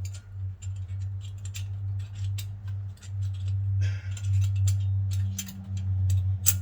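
Irregular small metal clicks and clinks of brake pads, caliper hardware and tools being handled, with a brief scrape about four seconds in, over a steady low hum.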